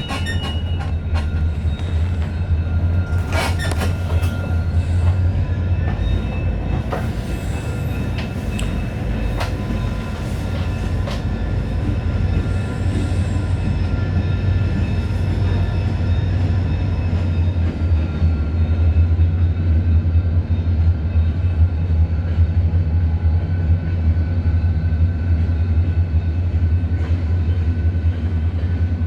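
Freight train cars rolling past at close range: a steady, loud low rumble with scattered sharp clicks of wheels over the rail joints and thin, steady high-pitched tones over the top.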